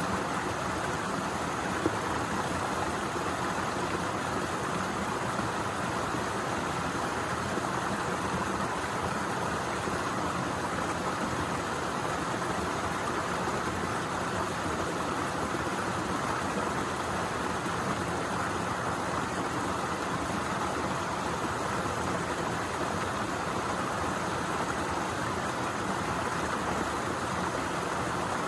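Waterfall rushing in a steady, unbroken roar of falling water, with a single brief click about two seconds in.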